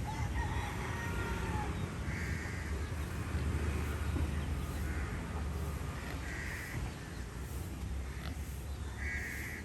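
Several short, harsh animal calls a few seconds apart, over a steady low rumble of wind and surf.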